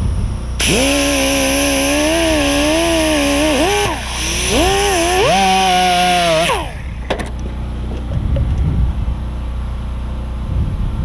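Handheld power tool cleaning rust and old grease off the top of a brake caliper bracket. It runs in two bursts with a wavering pitch that dips briefly about four seconds in, then winds down with a falling pitch about six and a half seconds in.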